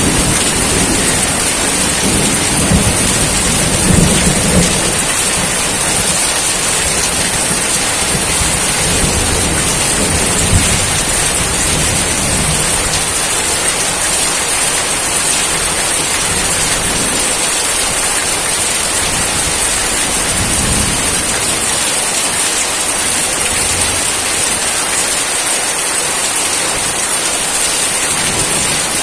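Steady heavy rainfall with a constant hiss. Low thunder rumbles through the first several seconds, then fades.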